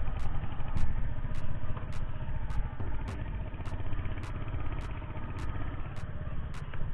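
Motorcycle engine running steadily with a dense low rumble while the bike is ridden.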